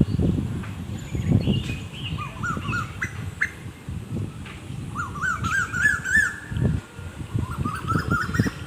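Waterfowl calling in quick runs of short rising-and-falling notes, several runs through the stretch, over a low, uneven rumble.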